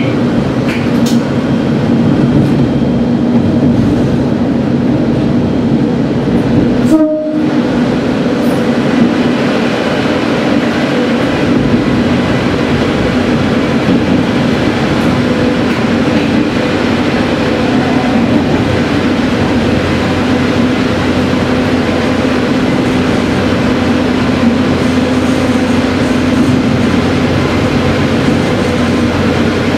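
Diesel railcar running steadily through a tunnel, heard from the driver's cab: engine drone and wheel-on-rail rumble, closed in by the tunnel walls. The sound cuts out for a moment about seven seconds in.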